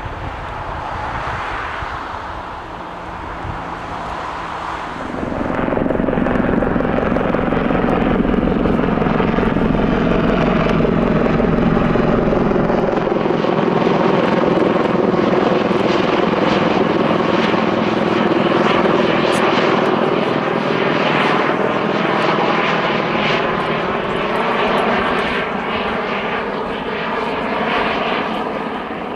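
Aircraft flying low overhead, its engine noise swelling loud about five seconds in and staying loud, easing slightly near the end.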